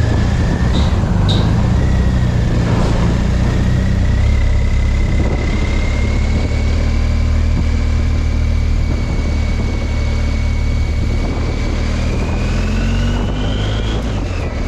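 Motorcycle engine running steadily while riding at road speed, with a constant rush of noise. The engine note rises over the last couple of seconds.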